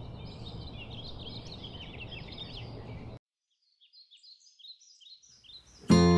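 Many small birds chirping over a steady low background hum; about three seconds in it cuts to a quieter stretch with a few scattered chirps. Acoustic guitar music starts near the end.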